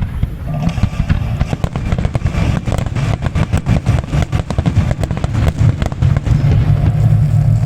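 A fireworks display: rapid, irregular bangs and crackles packed close together through the middle, over a heavy low rumble.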